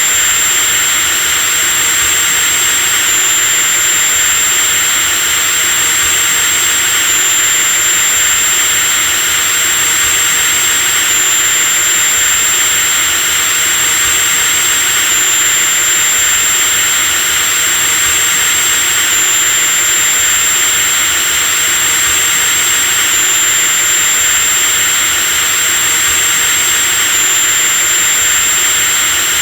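Electric drill motor running steadily at constant speed: a continuous high-pitched whine, with a thin high tone that shifts slightly about every four seconds.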